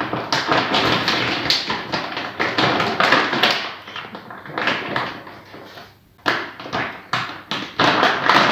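A bag of dry dog food being opened: rapid crinkling and rustling of the packaging, with a short pause about six seconds in.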